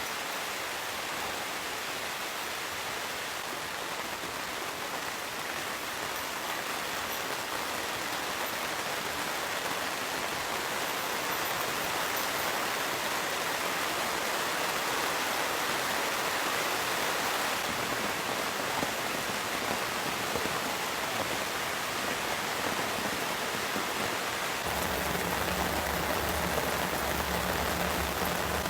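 Heavy rain falling steadily, an even hiss that grows a little louder partway through. A low steady hum joins near the end.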